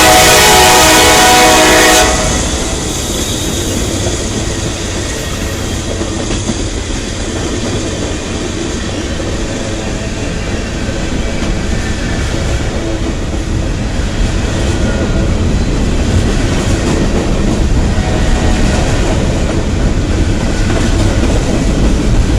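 Freight train locomotive horn sounding loudly and cutting off about two seconds in, then the train rolling past with a steady rumble and clickety-clack of freight car wheels on the rails, growing a little louder near the end.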